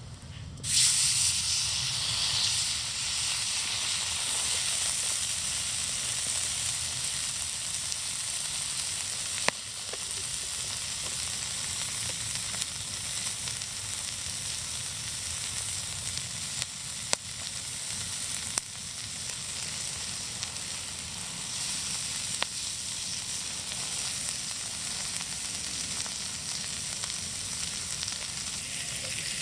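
Meat sizzling on a hot iron griddle plate. The sizzle starts abruptly about a second in and runs steadily, with a few sharp pops.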